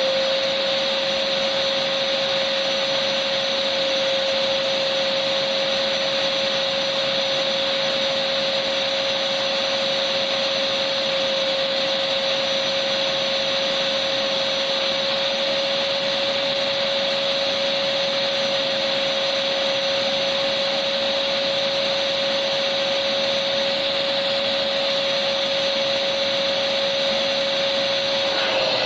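Electric vacuum cleaner running steadily: an even rushing hiss with a constant whine, used as white noise.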